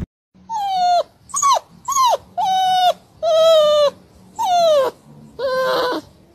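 Golden retriever puppy giving a series of about seven high-pitched yips, each starting high and dropping in pitch, some held briefly.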